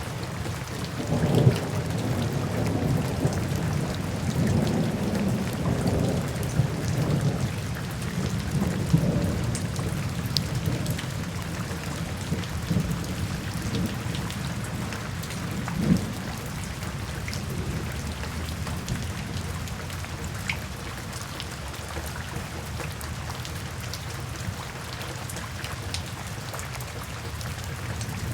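Steady rain with rolling thunder, the rumbles heaviest in the first ten seconds, and a sharper thunderclap about sixteen seconds in.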